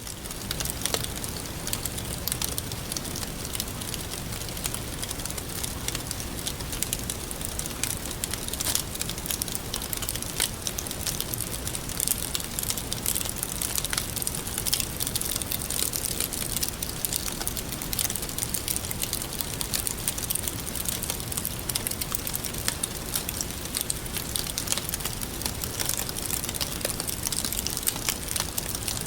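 Campfire burning steadily, crackling with frequent sharp pops over a constant hiss.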